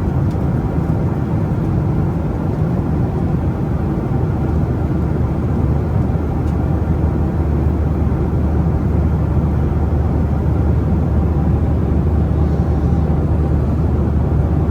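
Steady in-flight cabin noise of a Boeing 737-800 airliner: the low drone of its CFM56 turbofan engines and rushing airflow, heard inside the economy cabin from a window seat over the wing.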